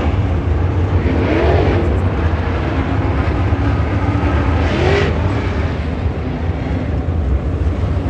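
Dirt late model race car engines running with a steady low rumble. The engine note rises sharply about a second in and again about five seconds in.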